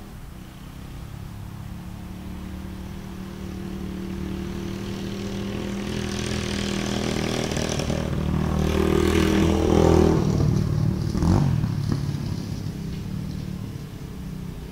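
Dirt bike engine passing by: it grows steadily louder to a peak about ten seconds in, its note drops as it goes past, and it fades away.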